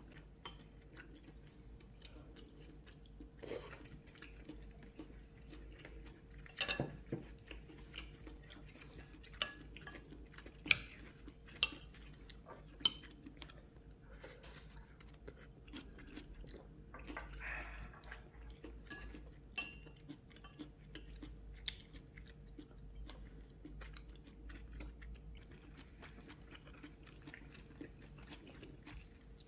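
People chewing food at a table, with scattered clinks of spoons or chopsticks against dishes; three sharper clinks come about a third of the way in. A faint steady hum runs underneath.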